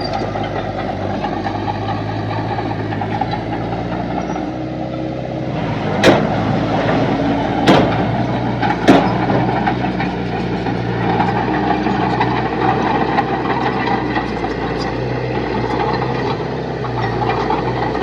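Heavy diesel earthmoving machinery running steadily, a little louder from about five seconds in, with three sharp clanks about six, eight and nine seconds in.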